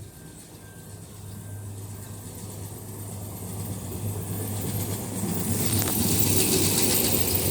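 Freight train approaching: a steady low engine hum with rolling noise that grows steadily louder, swelling strongly from about five seconds in.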